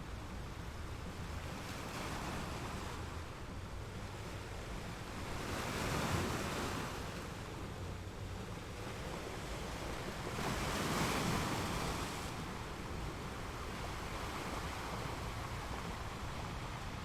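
Sea waves breaking and washing on a shore, a steady surf with two louder waves swelling about six and eleven seconds in.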